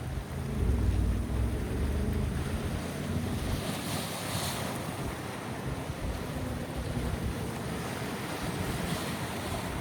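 Red Sea waves washing against the shore, with wind buffeting the microphone, heaviest in the first few seconds. A wave breaks and splashes about four seconds in.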